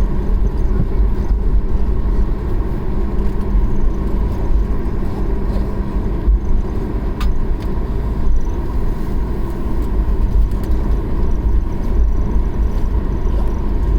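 Airliner cabin noise while taxiing after landing: a steady low rumble of the jet engines and the rolling aircraft, with a faint steady hum through it.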